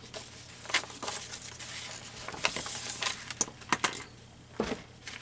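Paper being handled and pressed onto a journal page: soft rustling with a scattering of light taps and clicks.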